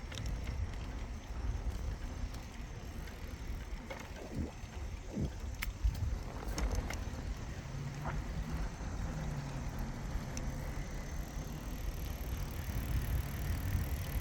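Riding a bicycle: wind rumbling on the microphone over the tyres' rolling noise, with a few light clicks and rattles. A faint steady hum comes in about halfway through.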